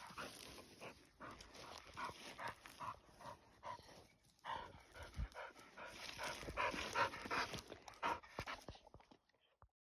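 A dog panting in quick, even breaths, two or three a second, that cut off abruptly near the end.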